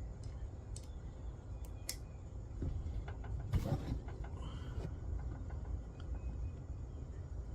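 Light clicks and a brief scrape of metal parts and hand tools being handled while a chainsaw mill is bolted together, over a steady low rumble.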